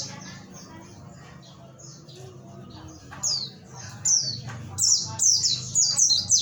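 White-eye (pleci) singing fast, high, chattering phrases of quick downward-sweeping notes, the learned song material (materi) it delivers in bursts. The song is sparse for the first few seconds and dense and continuous from about halfway in.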